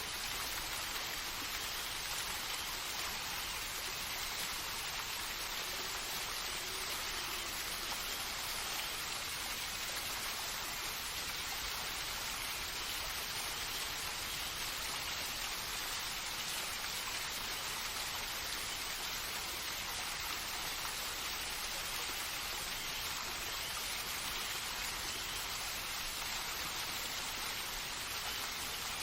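Steady rainfall, an even hiss of rain with no breaks or changes.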